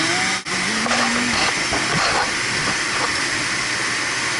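Steady loud rushing hiss of a running machine, with a man humming a short tune over it. The sound drops out briefly about half a second in.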